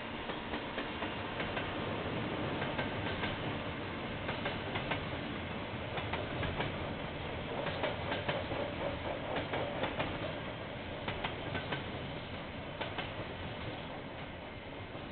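KiwiRail freight train's container wagons rolling past: a steady rumble of wheels on the track with repeated sharp clicks and clatter as the wheels cross rail joints.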